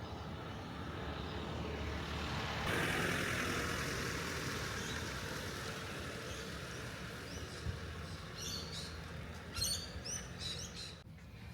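A vehicle goes by, its noise swelling to a peak about three seconds in and then slowly fading. Near the end, birds chirp in several quick clusters of high calls.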